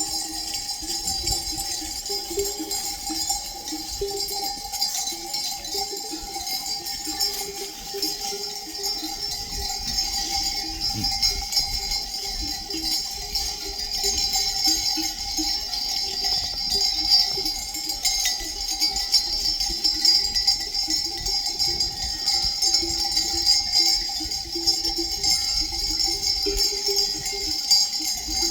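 Many bells on a flock of sheep and goats ringing and clanking without a break.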